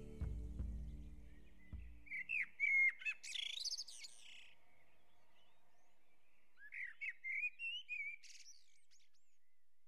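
Background music fades out over the first two seconds, leaving birdsong: two spells of quick chirping and warbling calls, each a couple of seconds long, with a pause between them.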